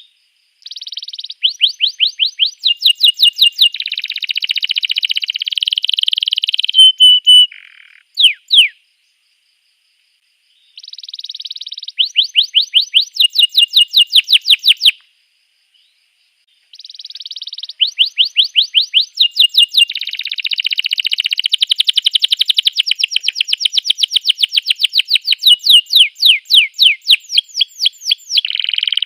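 Canary singing: long phrases of fast repeated chirping notes and buzzy trills, high-pitched. The song comes in three bouts broken by short silences.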